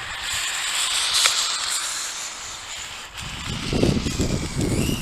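Redcat Volcano RC truck on small on-road wheels running fast on pavement. First comes a high rushing hiss of tyres and drivetrain with a sharp click about a second in. After about three seconds a low rumble takes over, with a faint rising whine near the end.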